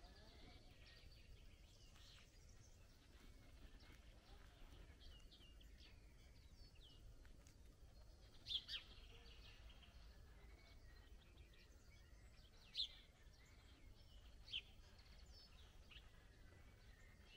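Faint birdsong: small birds chirping and twittering throughout, with a few louder sharp chirps, two close together about halfway through and two more later, over a faint low rumble.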